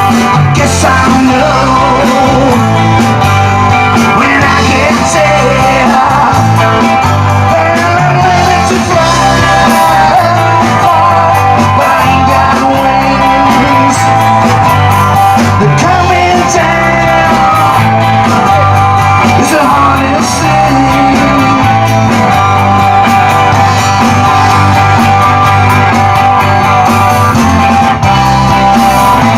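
Live rock band playing an instrumental break, a lead line bending up and down in pitch over the rest of the band.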